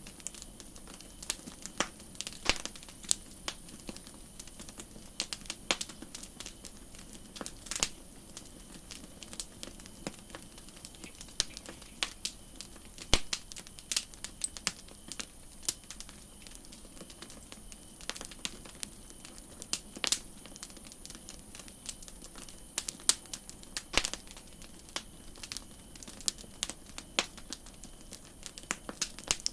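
Wood campfire crackling: a steady stream of irregular sharp pops and snaps of varying loudness over a soft hiss.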